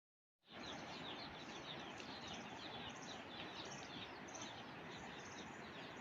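Small birds chirping busily in quick, high, repeated calls over a steady background hiss of outdoor ambience. The sound starts after a moment of silence.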